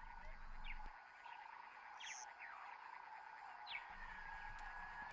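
Faint night-time animal chorus: a steady trill with several short, falling chirps scattered through it.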